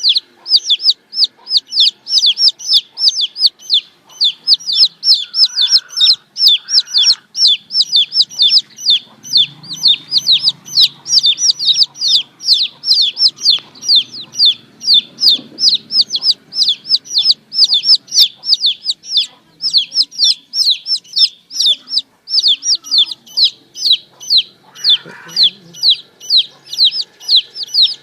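Baby chickens (chicks) peeping continuously: a fast, unbroken string of high, short, downward-sliding peeps, about three a second.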